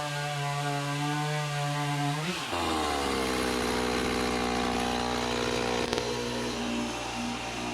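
Stihl 026 two-stroke chainsaw running at full throttle, then biting into a red oak log about two seconds in: the revs drop sharply and keep sagging under load as the chain cuts.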